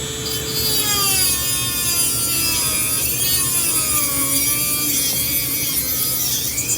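Rotary tool fitted with a sanding band, grinding into metal. Its whine climbs louder about half a second in, then sags and wavers in pitch as the band bears on the work.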